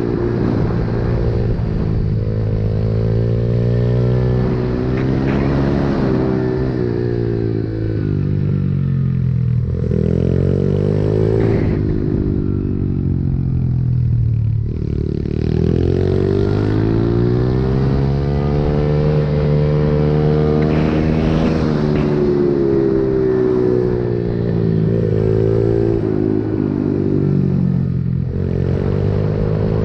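Pit bike's small single-cylinder engine under way, revving up and dropping back several times, its pitch rising on acceleration and falling off as it slows.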